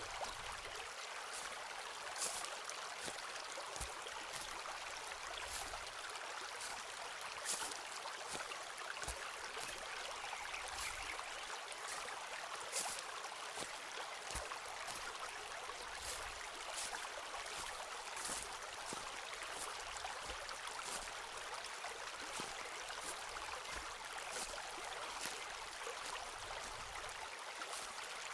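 Footsteps on a forest path, short crunching steps at a steady walking pace, over the even rush of a flowing stream.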